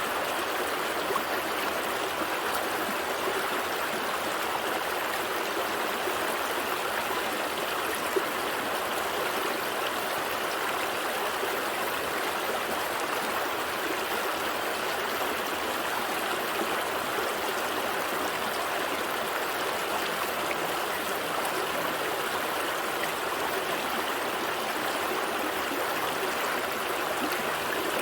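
Small stream flowing and trickling over stones, a steady rush of water with a soft click about eight seconds in.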